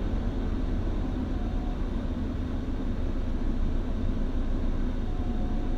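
Steady low rumble of a car's engine and tyres, heard from inside the cabin while it drives slowly.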